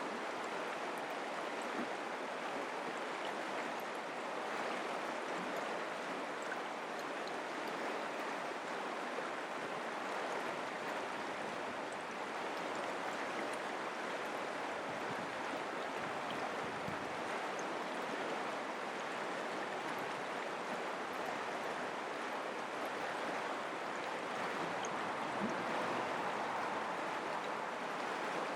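Mountain creek flowing: a steady rush of running water.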